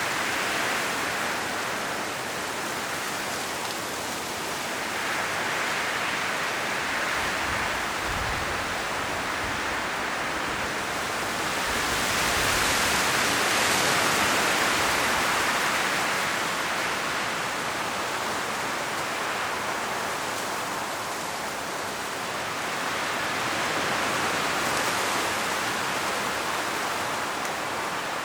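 Strong wind blowing through a forest, rustling the trees' autumn leaves in a steady rushing hiss that swells and eases in slow gusts, strongest a little under halfway through. A few low rumbles of wind come along with the gusts.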